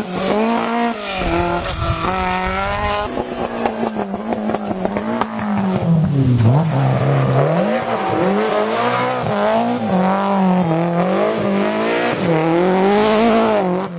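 Historic rally car engines revving hard on a rally stage, pitch climbing and dropping repeatedly through gear changes and corners, with a sudden switch to another car about three seconds in.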